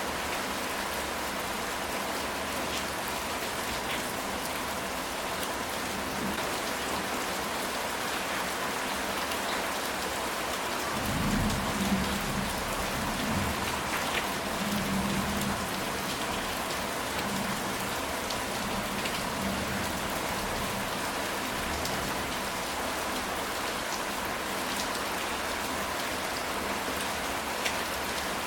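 Steady rain falling on a ceramic tile roof, an even hiss with scattered drop ticks. About eleven seconds in, a low rumble of thunder swells for a few seconds and fades back under the rain.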